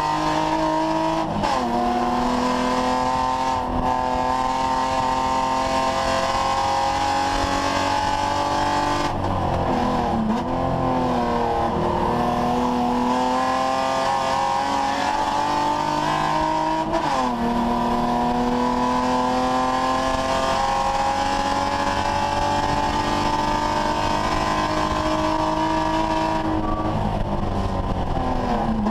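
BMW 3 Series race car's engine heard from inside the stripped cabin, pulling hard up through the revs. It changes up sharply about a second and a half in and again past halfway, and lifts off with downshifts for braking around ten seconds in and near the end.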